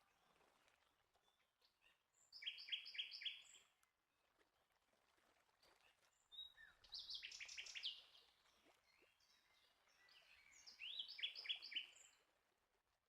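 A bird singing three short phrases a few seconds apart, each a quick run of four or five repeated high notes, over a faint outdoor background.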